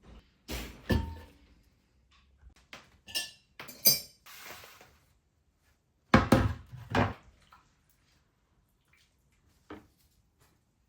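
Ceramic dishes being handled: several knocks as pieces are set down on a hard surface, and two ringing clinks a few seconds in.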